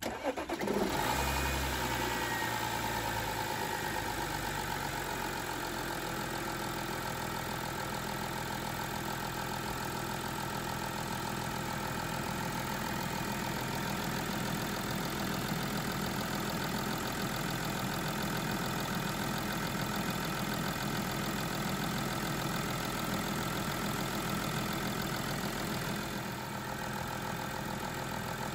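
Audi 2.7 TDI V6 diesel engine starting right at the beginning, swelling briefly, then settling into a steady idle.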